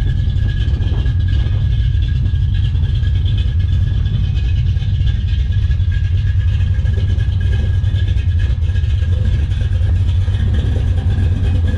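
Ford 460 big-block V8 in a 1964 Galaxie, running steadily at idle with a deep, even rumble.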